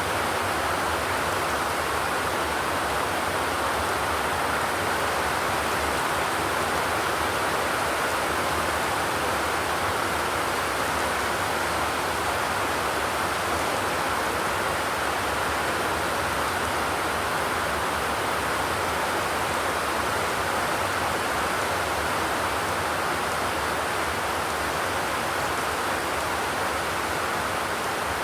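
Steady rain falling on a zinc roof, an even hiss without thunder.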